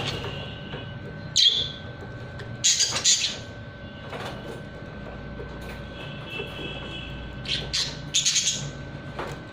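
Parrots calling in short, shrill squawks and chirps: one about a second and a half in, another around three seconds, and a quick run of calls near the end, with fainter calls between.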